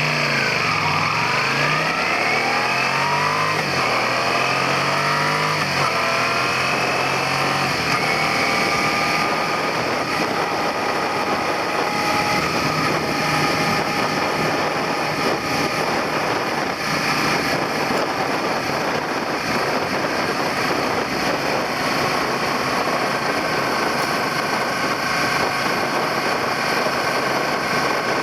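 Suzuki SV400's V-twin engine pulling away and accelerating up through several gears, its pitch rising and dropping back at each shift in the first six seconds, then running steadily at cruising speed under a constant rush of road and wind noise.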